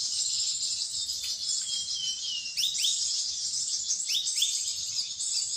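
Songbird singing a dense, unbroken high chatter, with short whistles sliding downward every second or so.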